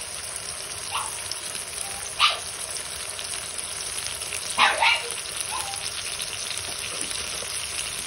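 Onions and tomatoes frying in oil in a wok, a steady sizzle, with oyster sauce freshly poured in. A few short sharp sounds stand out above the sizzle, about a second or two apart.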